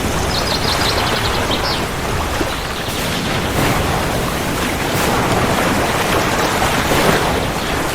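Steady, heavy rainfall, an even rushing hiss. A short, rapid, high-pitched trill sounds about half a second in.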